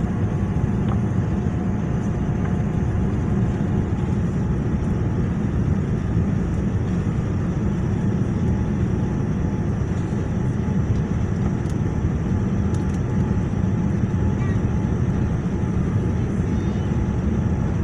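Steady cabin noise inside a Boeing 787 airliner on descent: an even, deep rumble of airflow and engines that holds level throughout.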